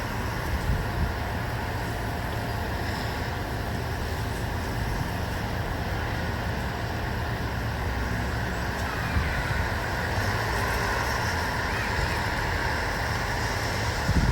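Steady hum of distant road traffic, an even rumble with no single vehicle standing out, and a brief low thump right at the end.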